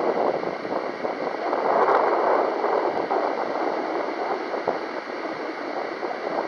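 Strong, gusty wind buffeting the microphone: a rushing noise that swells and eases, strongest about two seconds in.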